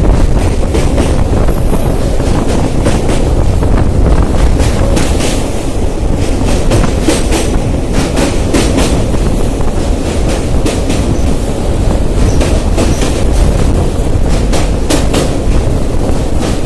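Train running, with a steady low rumble and many sharp clicks of wheels passing over rail joints.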